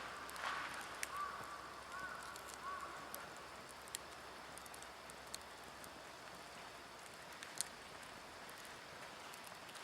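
Wood fire burning with a quiet steady hiss and a few sharp crackles and pops, scattered several seconds apart. Faint repeated chirps in the first three seconds.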